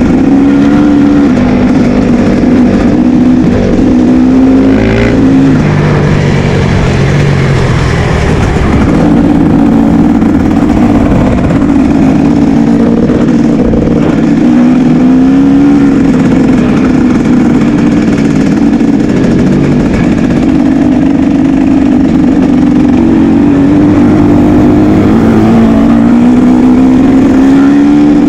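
Motocross dirt-bike engines revving, the pitch rising and falling over and over as the throttle opens and closes.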